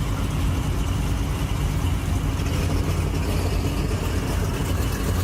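Car engine running at a steady idle, a low even rumble.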